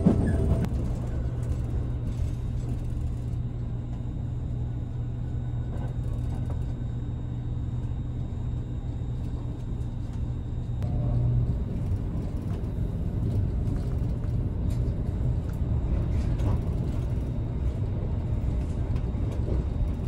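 Running noise inside a passenger car of a JR Kyushu 787 series electric express train at speed: a steady low rumble of wheels on rail, with a low steady hum that stops about halfway through.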